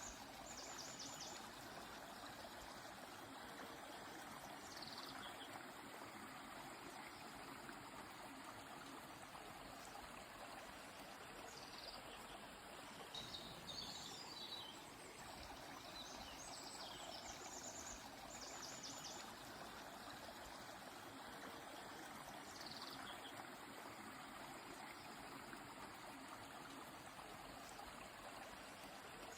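A river flowing steadily and softly, with birds calling now and then above it: rapid high trills near the start and again a little past the middle, plus several short high chirps.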